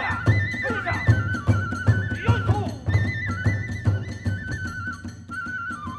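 Kagura hayashi accompaniment: a bamboo flute plays a stepped melody over steady taiko drum beats, about two a second, with sharp strikes of small hand cymbals.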